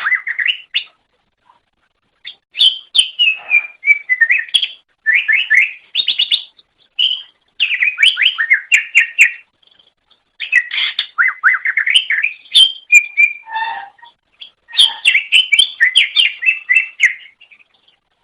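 Green leafbird (cucak ijo) singing: fast runs of varied chirps, whistles and trills in phrases of a second or a few seconds, separated by short pauses.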